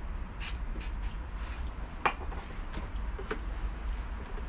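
Hand tools clinking and scraping against a motorbike's metal parts while a stuck part is worked loose. There are a few short hissy strokes in the first second or so and a sharp click about two seconds in.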